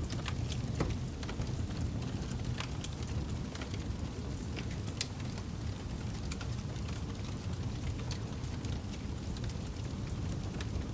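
Campfire burning, with scattered sharp crackles and pops of burning wood over a steady low rumble.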